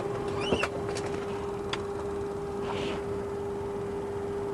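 Boeing 737-200 cockpit ambience: a steady electrical hum over rushing air noise. A few sharp switch clicks sound in the first two seconds, and a short hiss comes near three seconds in.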